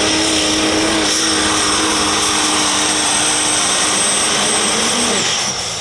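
Super stock diesel pulling truck's engine at full throttle under load, with a high turbocharger whistle over it, held steady. Near the end the pitch falls and it gets quieter as the throttle comes off.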